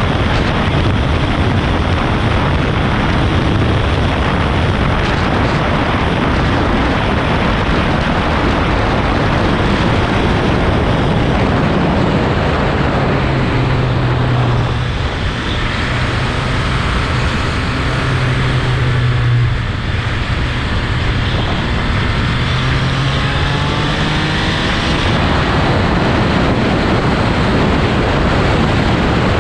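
Heavy wind noise rushing over the microphone of a motorcycle at speed. A steady low engine hum comes through for a stretch in the middle.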